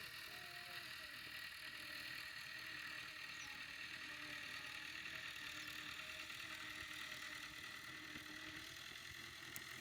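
Tractor engine running steadily under load, pulling a laser land leveler; faint, with an even hiss and a faint steady whine.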